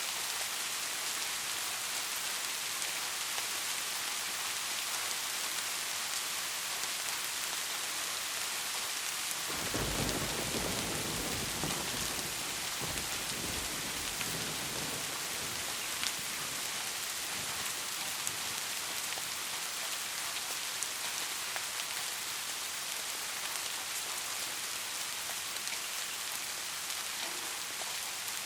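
Steady heavy rain hissing. About ten seconds in, a roll of thunder rumbles low and fades over several seconds, with a few louder drops ticking here and there.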